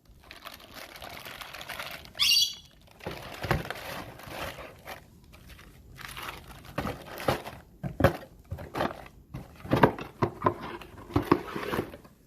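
Replacement car parts and their packaging being handled: irregular rustling and crinkling of cardboard and plastic wrap, with light knocks as parts are set down. A short high chirp sounds about two seconds in.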